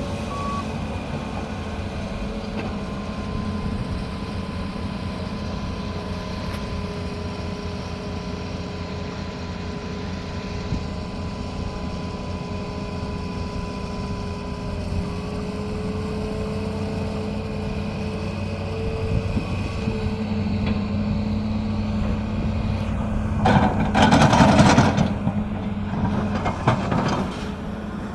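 Excavator diesel engine running steadily. Near the end there is a louder, noisy rush with a few sharp knocks.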